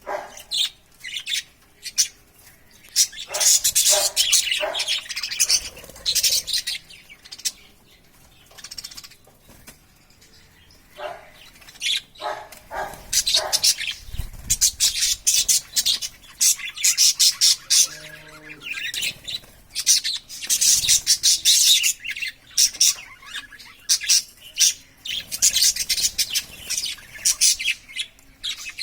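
Pet budgerigars chirping and chattering in quick high-pitched bursts, with a quieter spell about eight to eleven seconds in.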